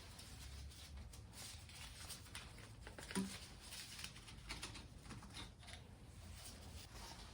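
Faint clicks and light scrapes of small metal engine parts being handled during a diesel engine teardown, with one louder clink about three seconds in.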